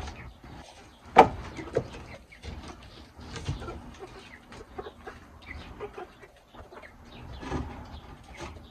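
Chickens clucking, with scattered clicks and knocks; a sharp knock about a second in is the loudest sound, followed by a smaller one.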